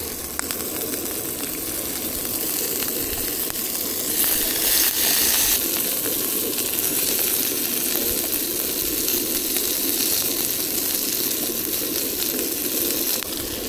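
Prawns sizzling in vegetable oil in a 10-inch Sea to Summit Alpha Pan over a Jetboil gas burner: a steady frying hiss that swells louder for a second or so about four seconds in.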